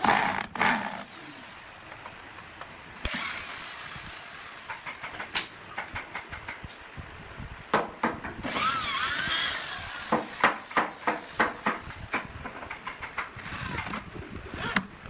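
Wood being worked with hand and power tools: a drill running in short spells with a wavering whine about two-thirds of the way through, then a run of sharp knocks on wood.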